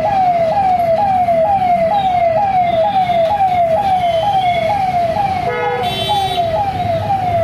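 Electronic siren sounding in a fast repeating pattern: a falling tone that snaps back up about twice a second, over a steady low rumble. A short horn-like blast sounds near the end.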